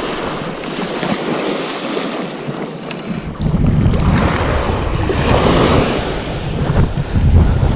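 Surf breaking on a beach, with wind buffeting the microphone; the low wind rumble gets much heavier about three seconds in.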